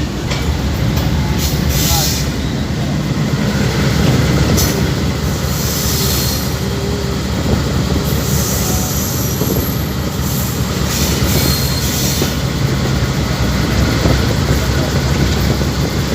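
A passenger train hauled by a GE U20 diesel-electric locomotive running at speed: a steady heavy rumble of wheels on the rails, with a high hiss that comes and goes several times.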